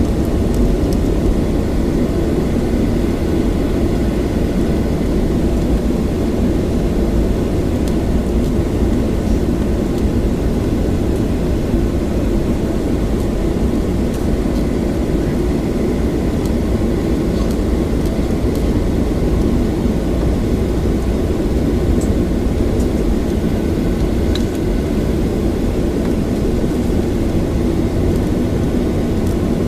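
Steady rumble inside the cabin of a Boeing 737-800, its CFM56 engines running at low power on the ground with the cabin air system hissing. It stays even throughout, with no rise or surge.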